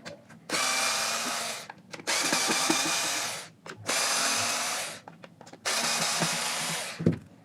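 Small power screwdriver running in four bursts of about a second each, backing out the four screws that hold a JBL Xtreme speaker's woofer driver. A short knock follows near the end.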